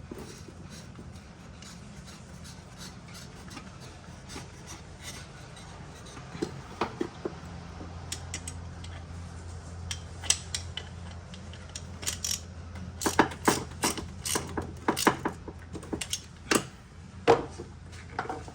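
Hand tools and metal parts being worked on a car: scattered clicks, knocks and scraping, sparse at first and coming thick and fast in the last third, over a faint steady low hum.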